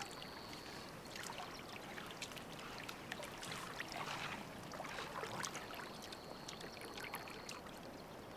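Water splashing, sloshing and trickling as lions feed on a freshly killed roan antelope in shallow water, with a swell of splashing around the middle. A thin steady high whine sounds for the first second and again for a second or two near the end.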